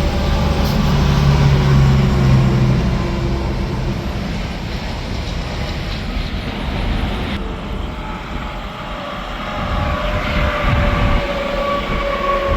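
Interstate traffic passing: semi trucks and cars going by with a loud, steady tire roar and engine rumble, their tire whine sliding down in pitch as each one passes. It eases off a little midway, then builds again as more vehicles approach.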